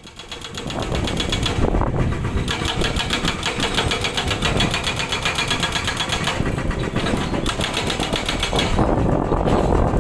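Hydraulic rock breaker on a Komatsu excavator hammering rock in fast, even blows, in long runs broken by short pauses, over the excavator's steady diesel engine. The sound fades in during the first second.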